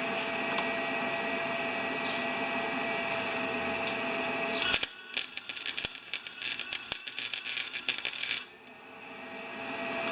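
A steady hum, then about five seconds in a gasless flux-core wire welder's arc crackles and sputters irregularly for about three and a half seconds before stopping.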